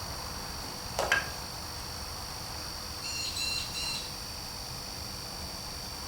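Steady high chirring of crickets in the background, with a single sharp knock about a second in and a quick run of short, high chirps around three seconds in.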